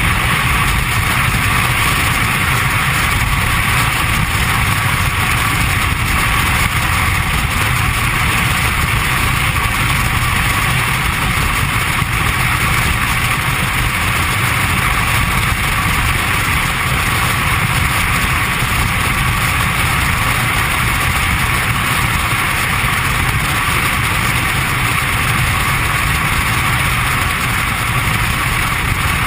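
Steady vehicle engine and road noise, unchanging throughout, with a low rumble and a higher hiss and no sudden impact.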